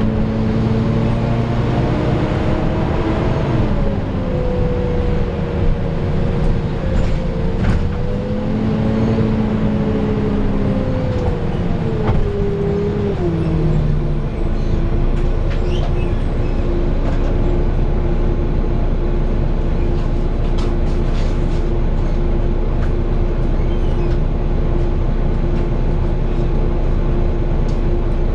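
Volvo B9TL bus's six-cylinder diesel engine heard from on board. Its pitch falls and wavers through the first half as the bus slows, then it settles into a steady hum.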